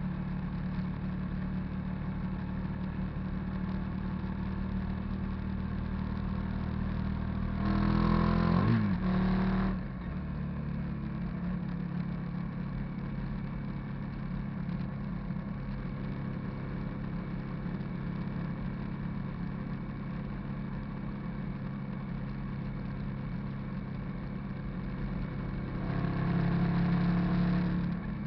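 Hyosung GV650 cruiser's V-twin engine running steadily on the move. About eight seconds in it gets louder for a couple of seconds as the revs shift up and back down, and it gets louder again for a moment near the end.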